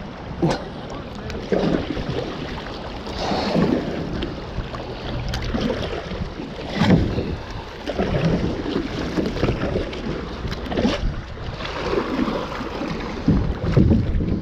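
Kayak paddle strokes splashing in river water, a stroke every one to two seconds, with wind rumbling on the microphone.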